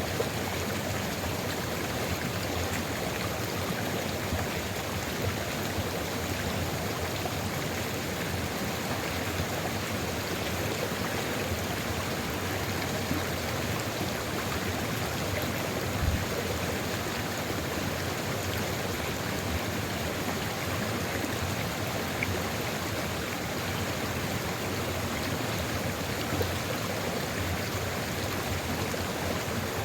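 Sulfur river flowing steadily with an even rush of water, broken by a few brief louder splashes.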